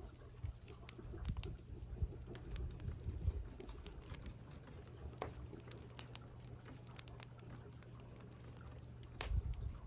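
Computer keyboard typing: irregular key clicks at a steady working pace over a steady low hum, with a few dull low thumps, the loudest near the end.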